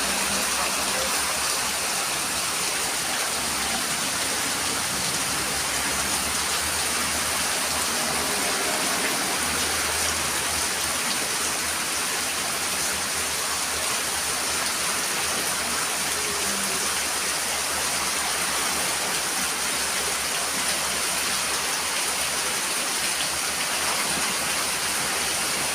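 Rain pouring down steadily in a wind-driven downpour, an unbroken hiss of water.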